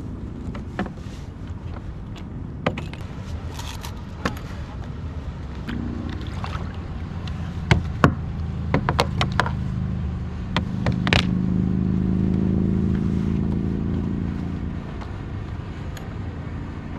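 Sharp knocks and clatter of gear being handled on a kayak, heaviest in the middle, over a low steady hum that swells for a few seconds past the middle.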